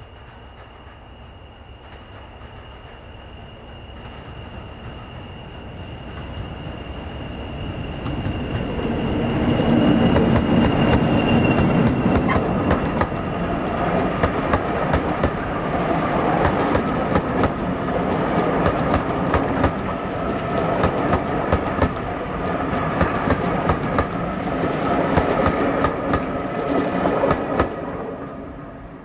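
Diesel-hauled train approaching and passing: the engine grows louder over about ten seconds, then carriage wheels clatter over rail joints in a long run of clicks before the sound falls away sharply near the end. A high steady whine is heard during the approach and fades out.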